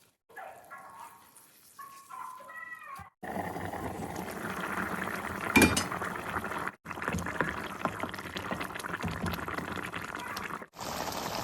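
A steady watery hiss of liquid, faint at first and then louder from about three seconds in, broken by two abrupt cuts, with a single sharp clink about five and a half seconds in.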